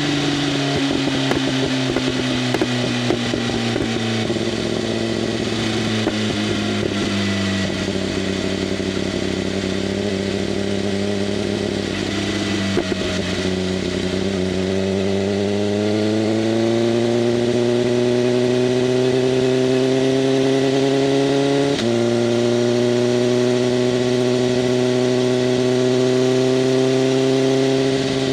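BMW M1000RR's inline-four running through an SC-Project CRT exhaust with the flaps open, heard from on the bike while riding. Engine speed falls over the first several seconds, holds, then climbs steadily, with a sudden jump in pitch about 22 seconds in before it settles higher.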